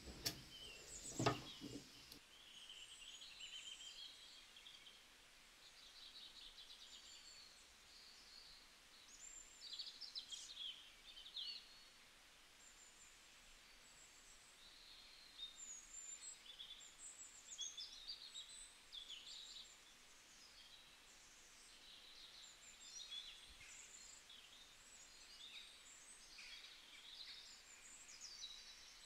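Faint birdsong: small birds chirping on and off in short, high sweeps. One sharp knock stands out about a second in.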